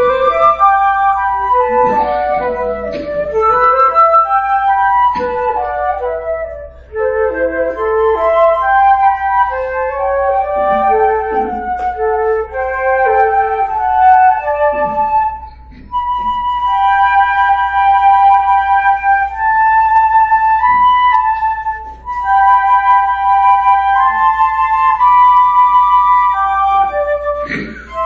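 Flute duet: two flutes playing a lyrical melody in harmony, with short breaks between phrases and long held notes in the second half.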